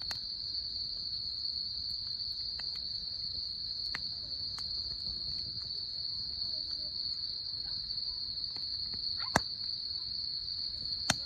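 Steady, high-pitched trilling of insects such as crickets, with a few faint clicks and two sharp pops near the end from a crackling campfire.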